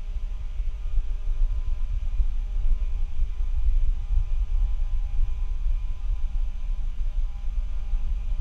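Faulty microphone's noise: a loud, fluttering low rumble with a steady hum and a light hiss, no other sound.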